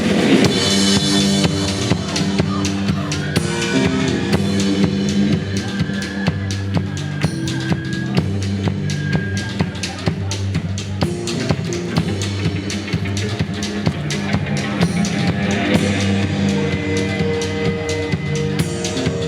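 Live band playing an instrumental passage: a drum kit keeps a steady beat with bass drum and snare over a stepping bass line, with a few held higher instrument notes.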